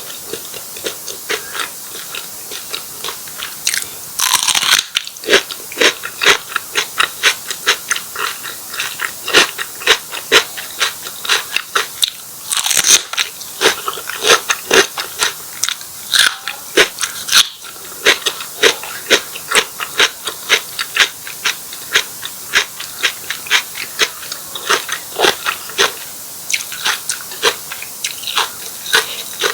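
Close-miked chewing of martabak telur, a fried stuffed pastry, its crisp crust crunching in rapid repeated bites, about two to three crunches a second.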